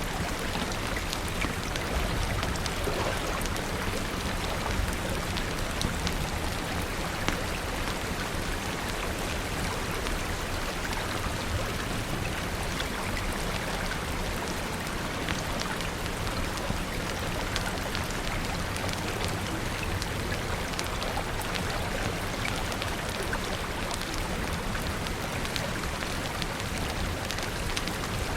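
Steady rain falling, an even hiss with many scattered sharp ticks of drops throughout.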